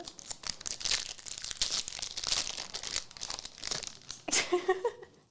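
Foil trading-card pack wrapper being crinkled and torn open, a dense irregular crackle for about four seconds.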